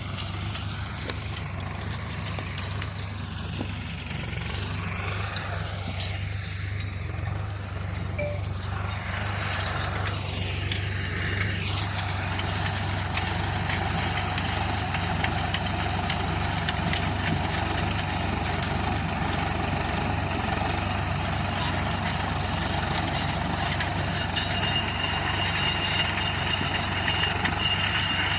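Tractor engine running steadily under load while ploughing a field, growing a little louder about twelve seconds in.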